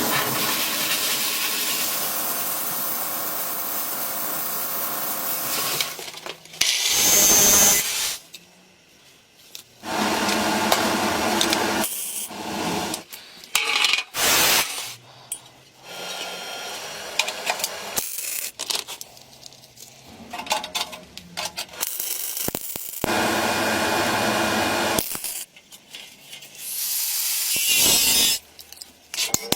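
Workshop tool noise: a small power tool running in stretches of a few seconds, cut off abruptly between them, with knocks and clicks of handling in the quieter gaps.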